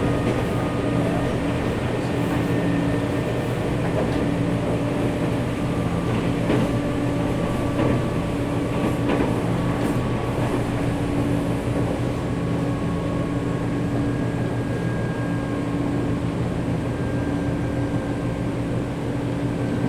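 Nankai 7100-series electric train running at steady speed, heard from inside the passenger car. Steady low rumble and hum of the running gear and motors, with a few faint clicks from the rails.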